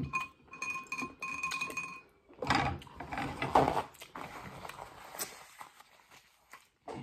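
Close-miked chewing of tough cow skin, with small wet clicks. About two and a half seconds in, a paper napkin rustles loudly, then more softly as it is wiped across the mouth.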